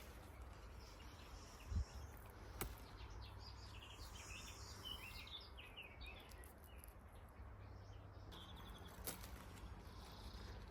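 Faint outdoor background with birds chirping, a run of short high chirps in the middle, and a few soft clicks.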